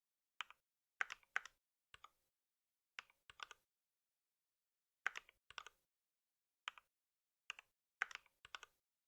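Computer keyboard keystrokes, sparse and unhurried: short clicks in small groups of one to three, with pauses of about half a second to a second and a half between groups.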